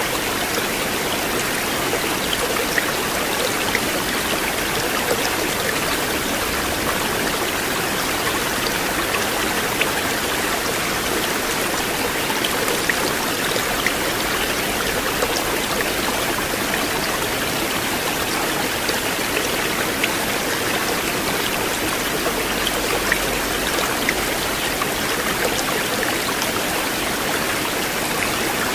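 River water flowing steadily over rocks, a continuous rushing with scattered small splashes.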